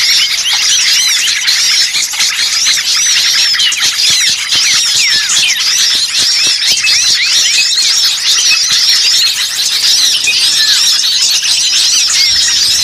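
Bird-lure recording of many small songbirds chirping and twittering all at once: a dense, unbroken chorus of quick, high-pitched chirps overlapping several times a second.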